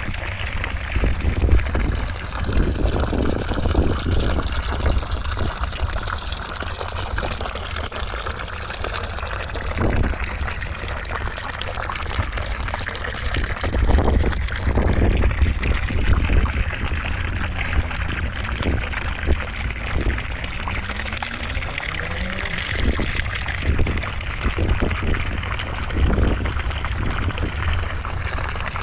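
Steady rushing white noise that sounds like running water, with a slowly shifting hollow colour and a few faint knocks.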